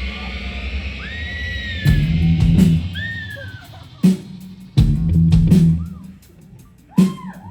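Live rock band playing a song's opening. A held chord rings out, then from about two seconds in the drums, bass and electric guitar come in with loud stop-start hits and short gaps between them. Bending guitar notes sound over the hits.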